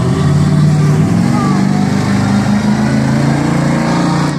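Monster truck engine running loud under throttle, its pitch climbing slowly as the truck speeds up.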